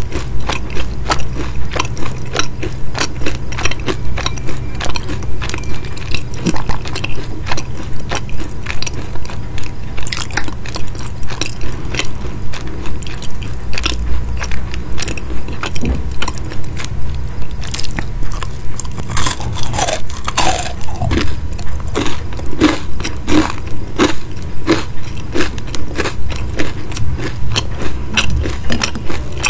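Close-miked chewing of crisp baked pastry: steady crunching about twice a second, with a louder burst of crunching about two-thirds of the way through.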